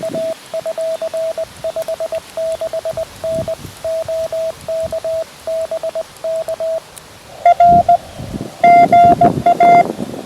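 Morse code (CW) tones from a QRP Labs QMX transceiver: a steady-pitched tone keyed on and off in dots and dashes. About seven and a half seconds in, a louder, slightly higher keyed tone takes over. Wind rumbles on the microphone underneath.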